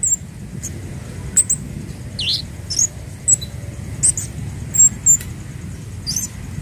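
Scarlet-headed flowerpecker (kemade, burung cabe Jawa) calling: about ten short, sharp, high-pitched chirps at irregular intervals, one of them a longer dipping note midway. A steady low rumble runs underneath.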